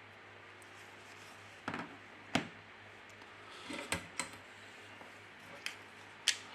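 Scattered small hard clicks and taps, about six, from a phone and small parts or tools being handled and set down on a workbench.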